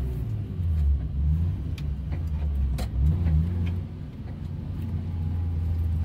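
Car engine running at low revs, heard from inside the cabin while the car creeps forward. Its pitch rises and falls a little in the first half, then it runs steadily. Two sharp clicks come about two and three seconds in.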